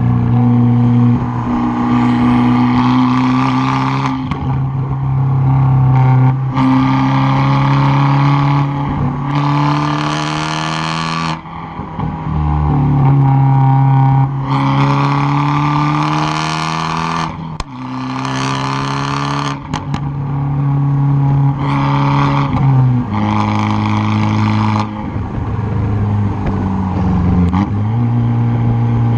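Exhaust of a tuned 2013 Fiat 500 Abarth's turbocharged 1.4-litre four-cylinder, heard close to the tailpipe. It pulls hard again and again: the pitch climbs through each gear, and between the loud pulls there are short lifts and gear changes.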